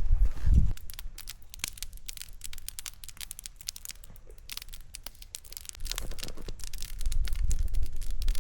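Wood campfire crackling, with many small irregular snaps and pops. A low rumble sits under it at the start and again for the last couple of seconds.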